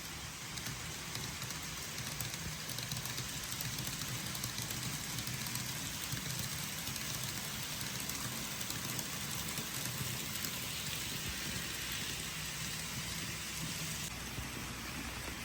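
Steady hiss of rain with a low rumble underneath.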